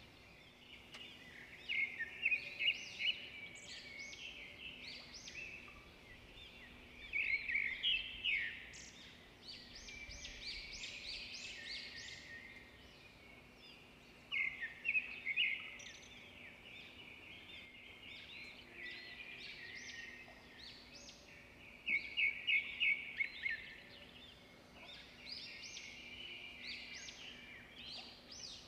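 Chicken, onions and tomatoes frying in hot oil, sizzling and crackling, swelling into louder bursts of crackle every few seconds as a wooden spoon stirs the pot. A faint steady hum lies underneath.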